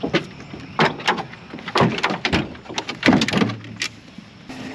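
Vehicle door being opened and handled: a string of sharp clunks and clicks, about eight in all, spread through a few seconds.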